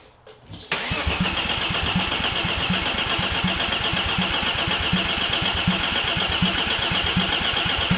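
Starter cranking a BMW S50B30 inline-six for about seven seconds with a steady rhythmic chug, without the engine catching. It then cuts off abruptly. The engine won't fire because its fuel lines are hooked up backwards.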